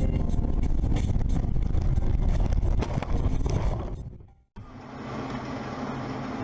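Car driving noise: a loud low rumble of engine and road with scattered clicks, fading out about four seconds in. After a brief silence, a quieter, steady engine hum from another car.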